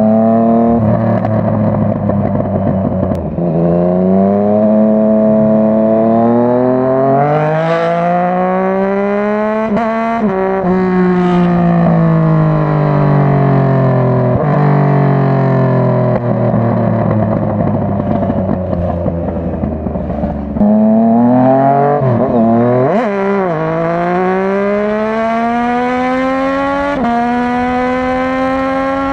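Yamaha MT-09's 847 cc inline three-cylinder engine under way, pitch rising under acceleration and dropping back at each gear change, then falling away as the bike slows. A little past two-thirds through, quick throttle blips on downshifts, then it pulls up through the gears again.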